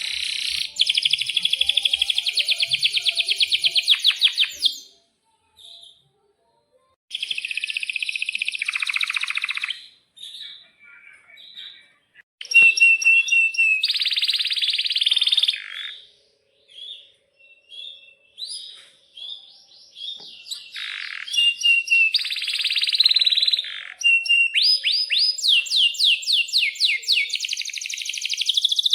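Domestic canary singing in phrases a few seconds long, mostly fast rolling trills of rapidly repeated notes mixed with sharp high chirps, with short pauses between phrases.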